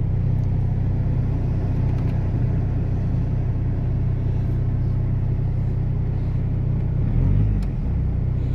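VW Passat B5.5 TDI diesel engine idling cold, running steadily with a brief swell about seven seconds in. The exhaust is blown close to the manifold.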